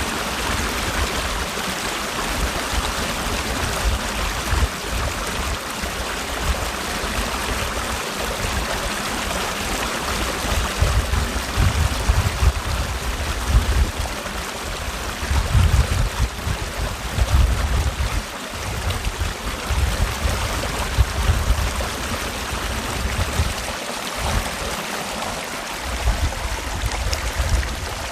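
Mountain valley stream running steadily over rocks, a continuous rush of water with an irregular low rumble that swells and fades every second or two.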